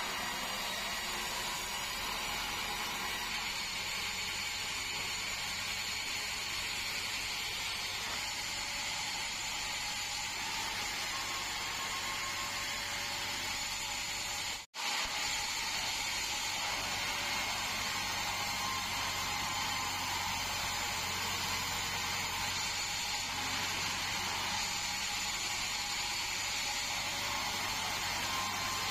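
Band sawmill running steadily, with a momentary break about halfway through.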